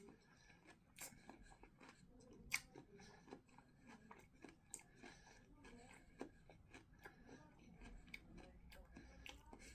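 Faint close-up chewing of a mouthful of lettuce, cucumber and boiled egg, with scattered small crunches and clicks; the sharpest comes about two and a half seconds in.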